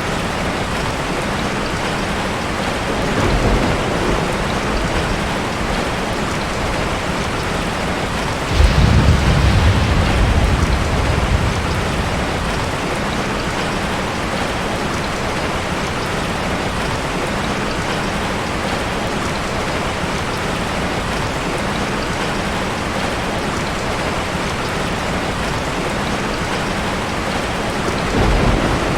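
Steady heavy rain, with rolls of thunder: a faint rumble a few seconds in, a louder one that breaks suddenly about a third of the way through and rumbles on for a few seconds, and another near the end.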